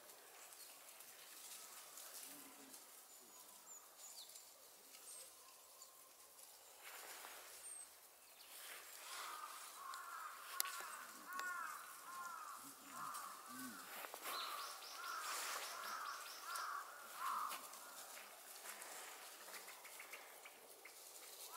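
Wild birds calling. For about nine seconds in the middle comes a rapid run of short, arched calls, with faint high chirps and ticks around them.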